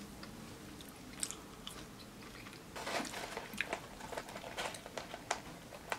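A person chewing french fries close to the microphone: quiet at first, then an irregular run of small chewing clicks and smacks from about halfway in.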